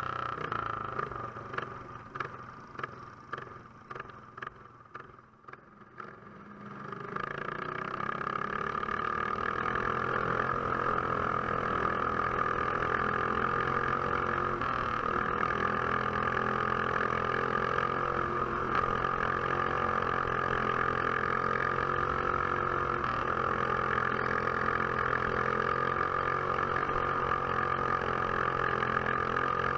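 Quarter midget race car's Box Stock class engine, heard from an onboard camera: for the first several seconds it pops along at low throttle in short regular pulses. From about seven seconds in it picks up and runs steadily at high revs.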